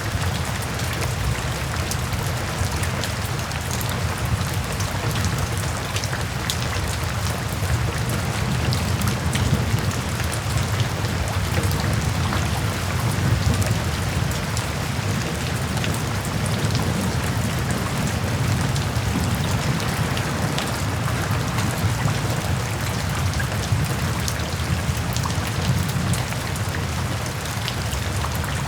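Steady rain falling, with many fine drop ticks over a constant low rumble.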